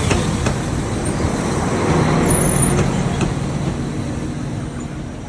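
Mountain bike rolling over a rough trail: steady tyre and wind noise on the camera mic, with occasional sharp clicks and rattles from the bike.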